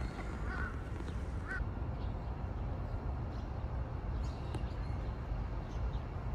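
Birds giving a few short calls in the first two seconds, over steady low background noise outdoors.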